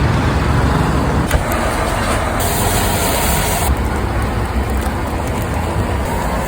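Steady rumble of road traffic, with a sharp click about a second in and a brief high hiss in the middle.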